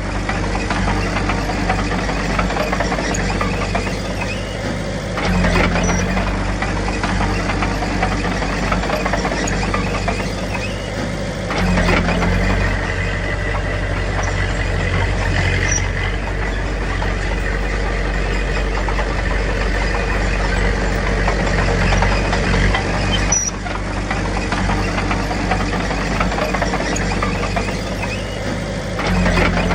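Heavy earthmoving diesel engine running continuously, its note and load changing every several seconds as the machine works, with brief high squeaks now and then.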